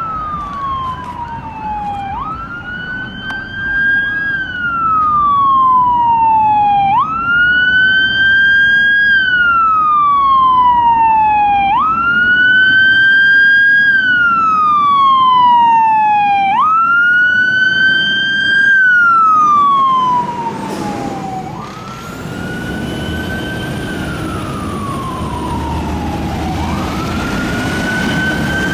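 Fire engine siren on a slow wail, each cycle a quick rise followed by a long falling sweep, about every five seconds. In the last third a heavy engine's rumble grows louder and a second, higher siren joins faintly.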